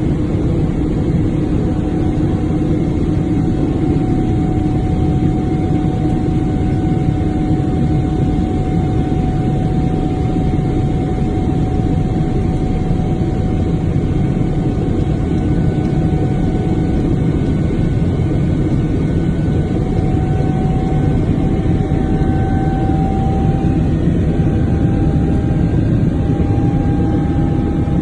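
Aircraft engine noise heard from inside the cabin: a loud, steady rumble with faint engine tones that creep slightly higher in pitch in the last several seconds.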